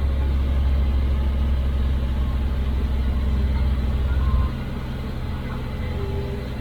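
IFA L60 truck's diesel engine running, heard from inside the cab: a loud, steady low drone that drops back suddenly about four and a half seconds in and carries on at a lower level.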